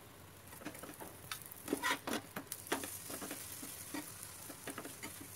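Sattu paratha sizzling in oil on a hot tawa, with a steel spatula scraping and tapping against the pan as it is pressed and turned. The sharp scrapes are loudest about two seconds in.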